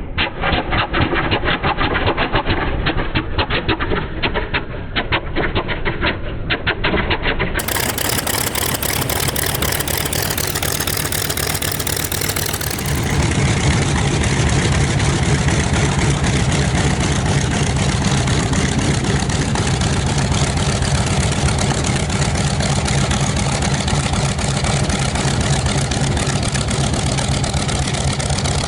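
Focke-Wulf Fw 190's piston engine running on the ground, with a choppy, pulsing beat for the first several seconds. About thirteen seconds in, it becomes a louder, steadier, deeper running sound.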